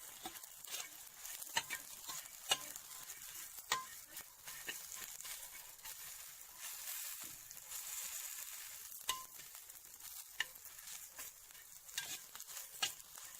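Young cicadas sizzling in a frying pan with frequent sharp clicks as they are stirred, being fried on until dry and crisp.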